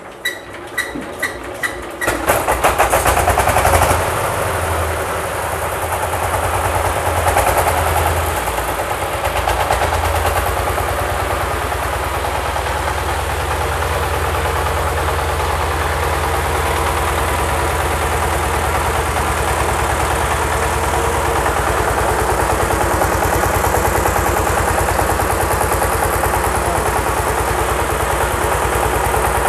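20 hp Sifang single-cylinder diesel engine being started: quick, even ticks while it is cranked, then it catches about two seconds in, runs loudest for a couple of seconds, and settles into steady running.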